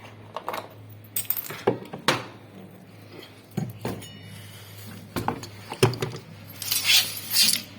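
Hand tools and metal parts clinking and knocking at irregular intervals during washing machine repair work, over a steady low hum.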